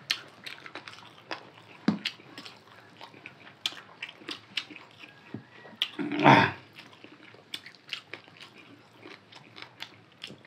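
Close-up mouth sounds of people eating rice and chicken curry by hand: wet chewing with many short lip-smacking clicks. About six seconds in comes a louder, rushing burst about half a second long.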